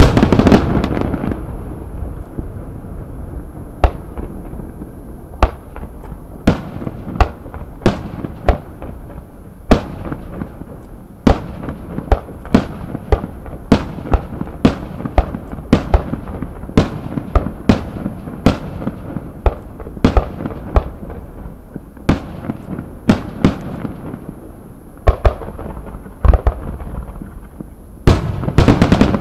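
Aerial fireworks shells bursting in an irregular string of sharp bangs, about one to three a second, over a low rumble. Heavier clusters of booms come at the start and again near the end.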